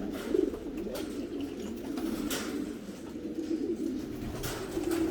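Several homing pigeons cooing at once, their low coos overlapping without a break.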